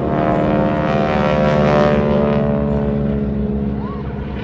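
Radial engine of a Boeing Stearman wing-walking biplane flying past, its drone swelling to a peak about two seconds in and then fading.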